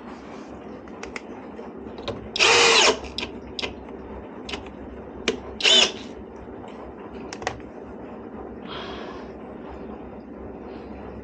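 Cordless drill-driver running in two short, loud bursts about three seconds apart, with a fainter third run near the end. Sharp clicks and knocks fall between the runs.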